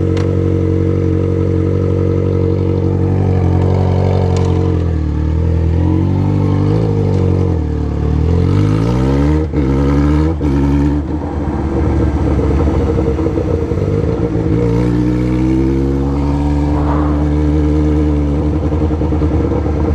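Yamaha XJ6's inline-four engine through a 4-into-1 straight-pipe exhaust, ridden with the throttle varying. The engine note holds steady, then drops and climbs again, breaks off briefly twice about halfway through, which fits gear changes, and rises once more before easing off.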